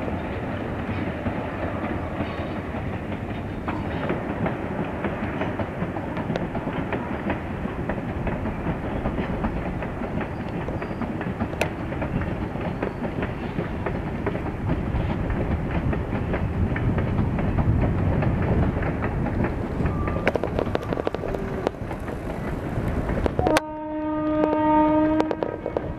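Passenger train hauled by a WAP-class electric locomotive rolling along the line: a steady rumble with the clickety-clack of wheels over rail joints. Near the end a train horn sounds one steady blast of about two seconds.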